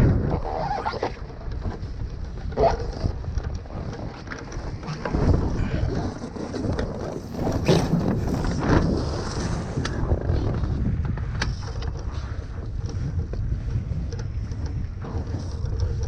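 Wind buffeting the microphone and water rushing past a foiling Moth dinghy sailing at speed, with a few sharp knocks or splashes along the way.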